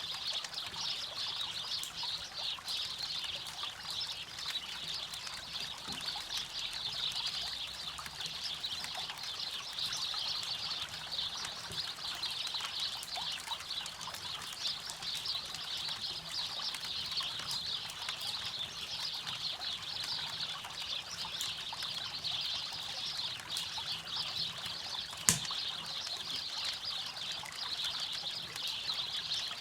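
River water rushing and trickling steadily, with a campfire crackling over it and one sharp, loud pop near the end.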